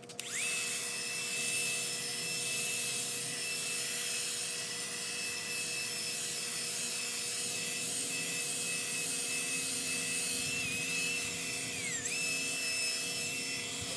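Drill running at full speed, spinning a 2000-grit sanding pad to wet-sand a plastic headlight lens. It gives a steady high motor whine that dips in pitch briefly near the end, then recovers.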